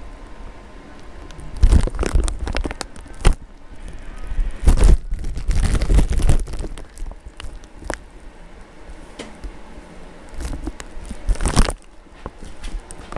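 Irregular bouts of crunching and scraping in deep snow, in three spells, each with a heavy low thump on the microphone.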